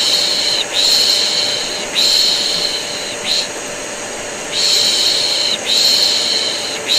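A vacuum cleaner running steadily under rhythmic 'shh' shushing, played as white noise to soothe a colicky baby. The shushes come in runs of long 'shhh's about a second each, each run ending in a short 'sh', with a brief pause between runs.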